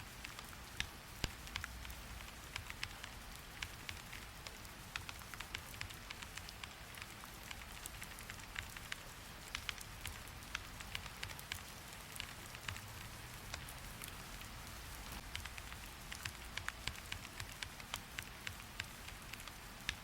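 Steady rain hiss with a scatter of sharp, irregular clicks throughout.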